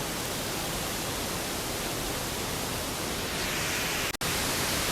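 Steady rushing background noise, even across high and low pitches with no distinct events, broken by a brief dropout about four seconds in.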